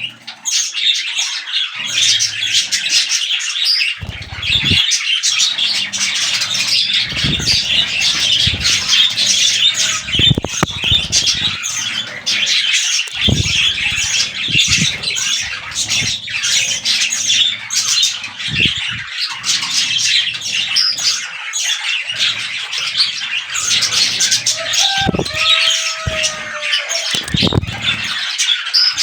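Budgerigars chattering and squawking without a break: a dense stream of rapid, high chirps and warbles, with occasional low thumps.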